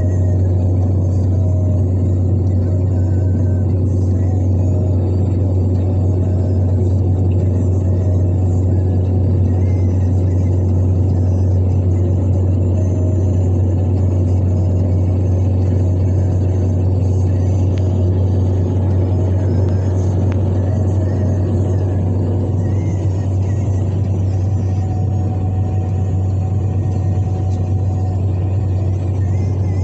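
Car driving steadily along a road: a constant low rumble with an even road-noise hiss that does not change in level.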